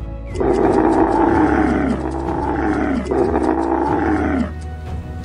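A camel's rough, roar-like call, drawn out for about four seconds in three long pulls that each slide down in pitch.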